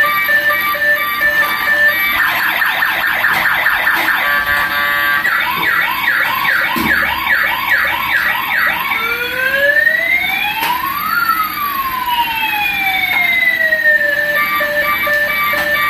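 Toy police car's electronic siren cycling through its tones: steady beeping, then a fast warble, then a quicker up-and-down yelp, then slow rising and falling wails, and back to beeping near the end.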